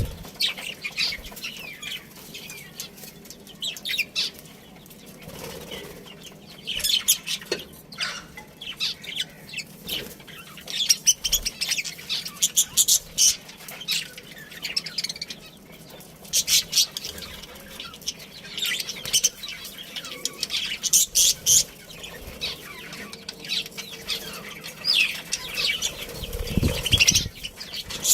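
A colony of budgerigars chirping in quick, high clusters of chatter, with fluttering of wings and a couple of low thuds near the end.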